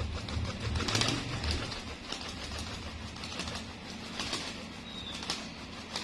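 Tame domestic pigeon cooing in low pulses over the first couple of seconds, with a few short, sharp rustles or wing flutters scattered through the rest.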